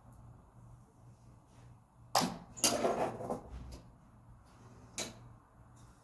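A golf swing: a sharp strike and a noisy swish of the club about two seconds in, then a single sharp click near the end.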